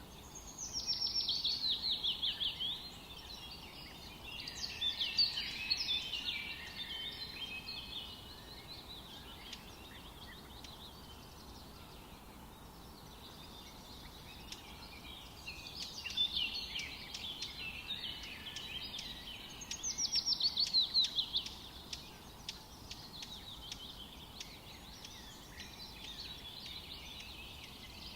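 Forest birds singing over a faint steady background hiss: a loud, fast trill of repeated falling notes about a second in and again around twenty seconds in, with other chirps and warbles between.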